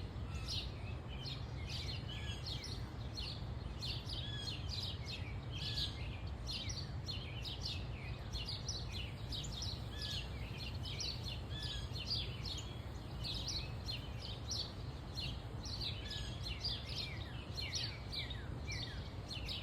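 Backyard songbirds chirping and twittering continuously, many short overlapping calls, over a steady low background rumble.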